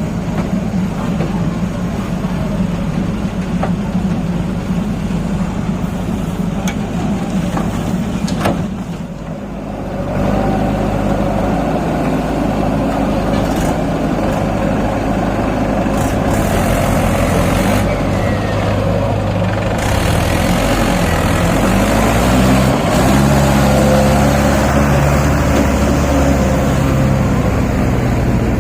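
Tractor's diesel engine running hard under load, pulling a loaded soil trolley. After a brief drop about a third of the way in, its note rises and falls a few times past the middle.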